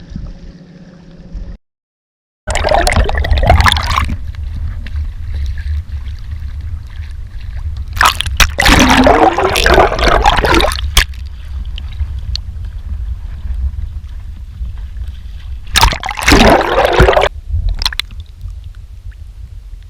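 Water sloshing and gurgling against a kayak hull, with three louder surges over a steady low rumble.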